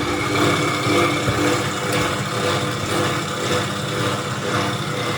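Steady running noise of factory machinery, a continuous hum with a few held whining tones and no clear strokes or rhythm.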